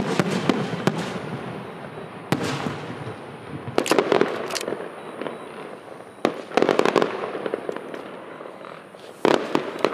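Fireworks display: a series of sharp bangs at irregular intervals, some coming in quick clusters, with echoes trailing after them.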